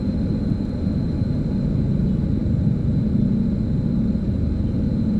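Steady low rumble of motor vehicles, engine and road noise, with a faint thin high tone held throughout.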